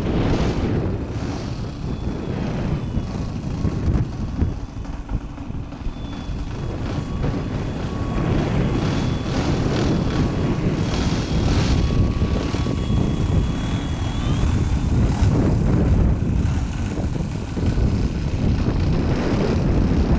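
Electric RC model Cessna 185's outrunner motor and propeller whining thinly in flight, the pitch shifting as the throttle changes, under a heavy low rumble of wind buffeting the microphone.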